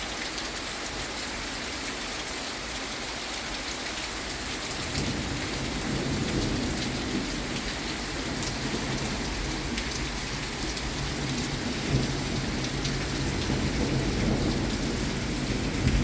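Steady rain falling, with the patter of raindrops; about five seconds in, rolling thunder begins, a low rumble that keeps going and slowly grows.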